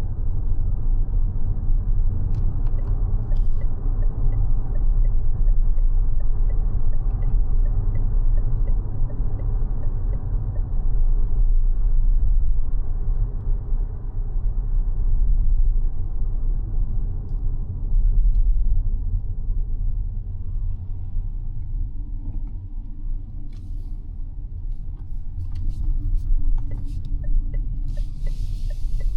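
Mazda 6e electric sedan driving: steady low road and tyre rumble with no engine note, easing off about two-thirds of the way through.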